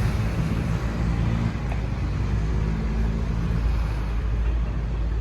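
Motor vehicle engine running with a steady low rumble and hum.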